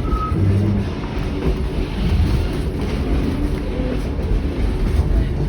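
Kuranda Scenic Railway train carriage running along the track: a steady low rumble of wheels on rails, heard from aboard the carriage.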